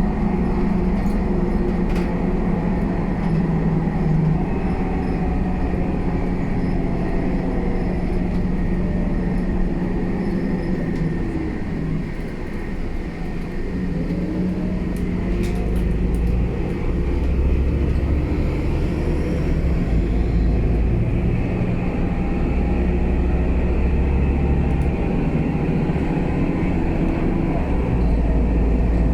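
Scania K320UA bus's diesel engine running under way: its note falls as the bus slows about twelve seconds in, then rises again as it pulls away and accelerates, with a strong low rumble.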